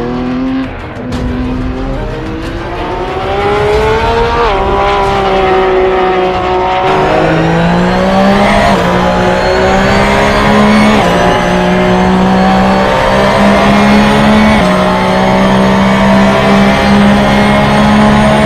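Porsche 911 GT3 R race car's naturally aspirated flat-six engine running hard, rising in pitch over the first few seconds and then stepping up and down through several gear changes.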